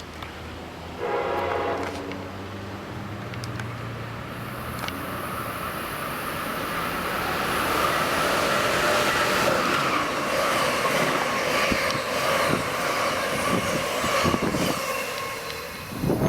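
Amtrak Northeast Regional train on the close track: a short horn blast about a second in, then a loud rush of the train passing, with wheels clicking over the rail joints near the end.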